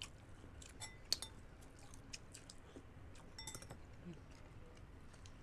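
Close-miked eating sounds: soft chewing and wet mouth clicks, with a sharp click about a second in and a few light clinks of a utensil.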